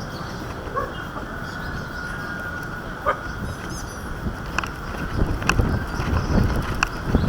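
Wind buffeting the microphone of a small camera carried aloft on a kite, a steady rumbling rush, with a few sharp clicks or knocks a second or so apart in the second half.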